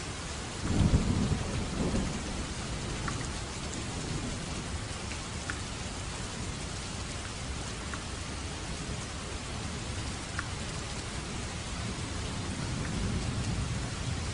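Steady rain hissing, with a low rumble of thunder about a second in and a softer one near the end. A few single drops tick faintly on top.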